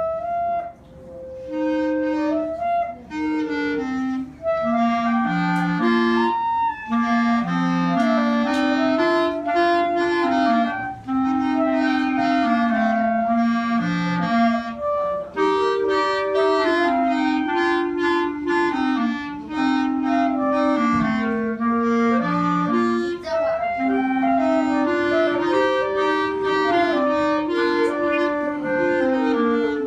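A clarinet duet playing a polka: a melody line over a lower harmony part, with short pauses between phrases.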